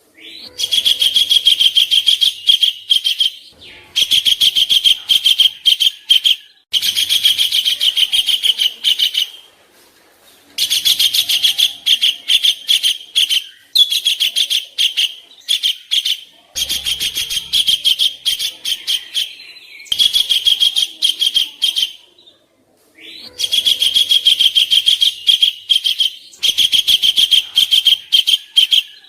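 Songbird masteran recording of harsh 'kasaran' filler song: phrases of rapid chattering notes, each lasting two to three seconds, repeated about nine times with short pauses between.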